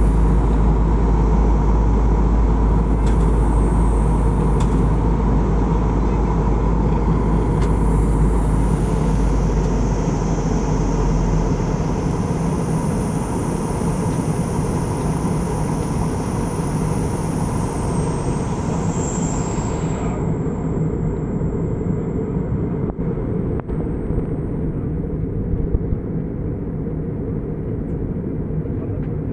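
Steady engine and airflow noise of an airliner in flight, heard inside the passenger cabin.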